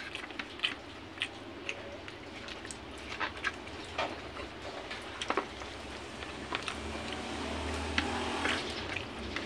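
Close-up eating sounds: a man chewing dried salted fish and rice eaten by hand, with short irregular mouth clicks and smacks. A low rumble swells near the end.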